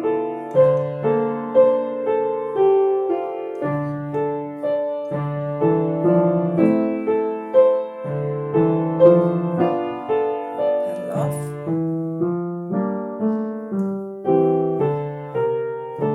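Piano playing a gentle, wave-like exercise with both hands together, notes struck about twice a second and held over one another by the sustain pedal.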